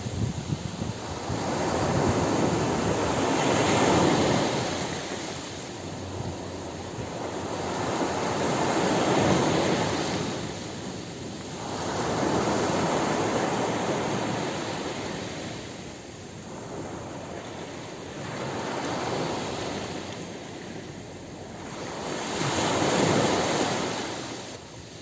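Ocean surf washing onto a beach: waves break and rush in, then ebb, in about five swells, one every four to six seconds.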